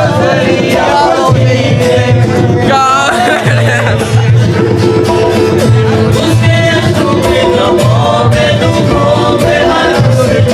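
Qawwali music: a singing voice over steady held notes, with regular percussion strokes.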